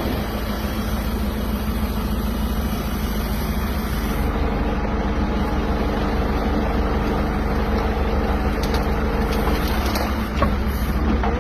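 Tractor engine running steadily, with a higher steady whine that joins about four seconds in and drops away near the end.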